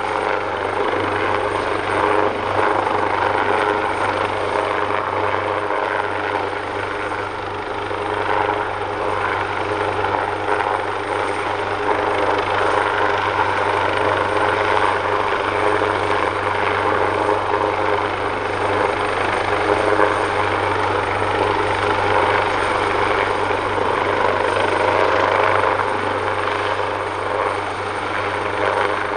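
AW139 helicopter running steadily, its twin Pratt & Whitney Canada PT6C turboshaft engines giving a thin, high steady whine over the noise of the five-bladed rotor.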